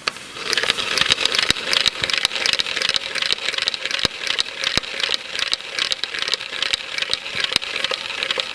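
VAZ 2102 intermediate shaft being turned, spinning the oil-pump drive gear in the block: a steady, rapid clicking rattle of meshing gear teeth, with a few sharper clicks. The gear turns freely, without binding.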